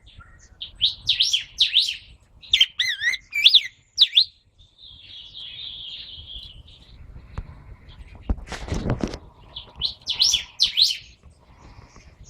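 Pet songbird singing short, quick warbled phrases of sweeping whistled notes in three bursts, with a harsher scratchy chatter in between and a brief rustle about two-thirds of the way through.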